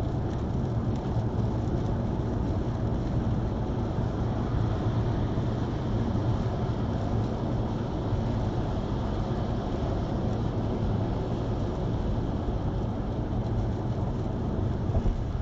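Steady road and engine noise of a car being driven, a continuous low rumble with no distinct events.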